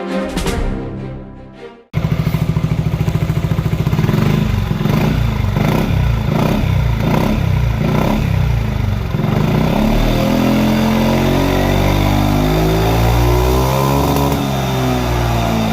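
Yamaha XMax 250 scooter's single-cylinder engine through a WRX GP3 Limited S250 aftermarket exhaust. It idles, is blipped several times in quick succession, then climbs steadily in pitch for a few seconds and drops back near the end. Music ends about two seconds in, just before the engine starts.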